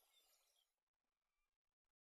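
Near silence: a very faint background hiss that fades out to dead silence about a second in.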